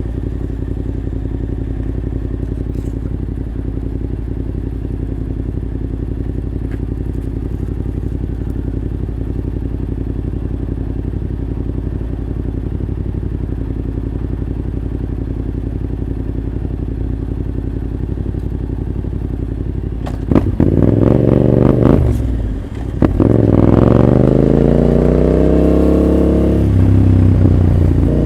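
Yamaha Ténéré 700's parallel-twin engine with an Arrow full exhaust idling steadily. About twenty seconds in, a louder motorcycle engine is revved, its pitch rising and then falling.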